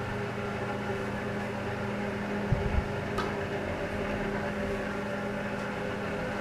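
1940 Emerson Jr. 12-inch two-speed table fan running: a steady electric motor hum with constant tones and a soft rush of air. A brief low thump comes about two and a half seconds in.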